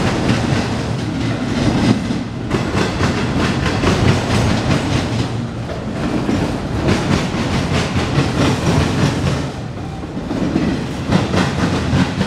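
Freight train of autorack cars rolling past close by: a steady rumble of steel wheels on rail with a continuous clickety-clack as the wheels cross the rail joints.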